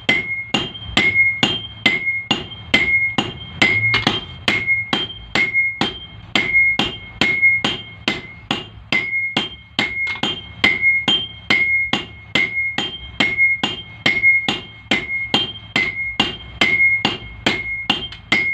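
Blacksmith's hammer striking iron on an anvil in a steady rhythm, about two blows a second, each blow leaving a bright metallic ring.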